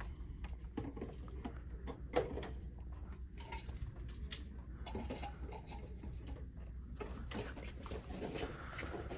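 Carded diecast toy cars in plastic blister packs being handled and flipped through, with irregular light clicks and rustles and one sharper knock about two seconds in, over a steady low store hum.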